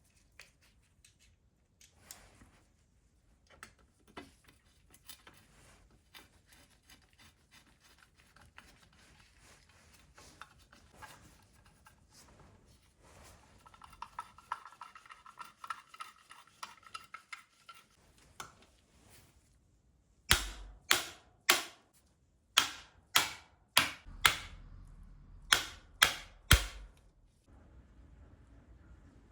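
Workshop handling sounds during engine assembly: small clicks and rubbing of tools and parts, then a run of about ten sharp knocks in quick groups, the loudest sounds here.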